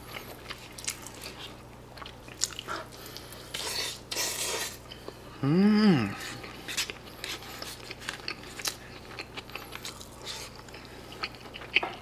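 Close-up eating sounds: chewing and biting on a pork cutlet with pizza sauce and cheese, with small clicks of a plastic fork against a plastic lunchbox tray. About halfway through comes a short hummed "mmm" that rises and falls in pitch, the loudest sound.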